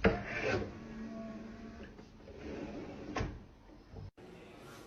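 Faint soft knocks and rustles of handling, with one sharper tap about three seconds in.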